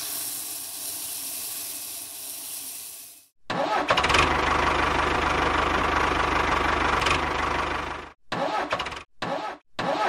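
A steady, dry hiss of soybeans pouring into a trolley, which cuts off about three seconds in. A tractor engine then starts and runs loudly with a deep rumble, and near the end it breaks into short choppy bursts.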